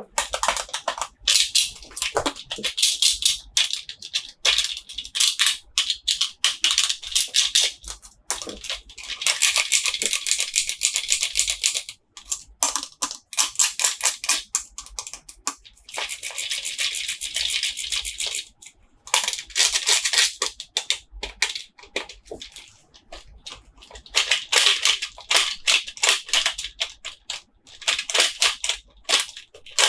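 Toy packaging being opened by hand: rapid crinkling, crackling and rustling of plastic wrap, with three longer stretches of continuous crinkling.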